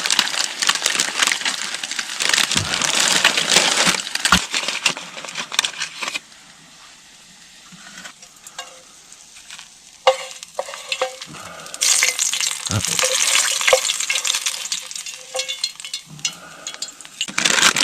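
Fish pieces frying in hot coconut oil, a loud, steady sizzle. About six seconds in it drops away abruptly, a few light knocks and clinks follow, and the sizzling resumes about twelve seconds in.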